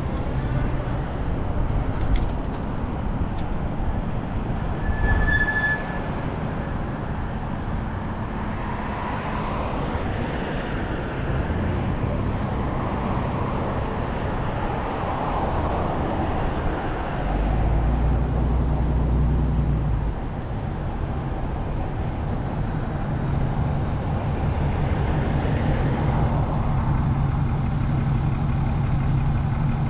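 Vehicle engine and road noise heard from the driver's seat while driving. There is a louder low rumble about 17 to 20 seconds in, then a steady engine hum.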